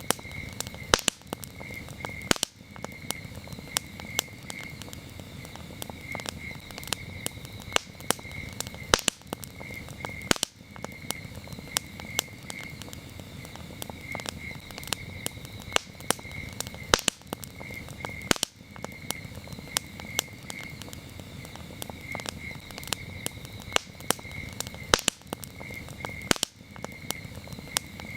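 Campfire crackling, with frequent sharp pops and snaps over a low rumble of burning wood, while crickets chirp steadily.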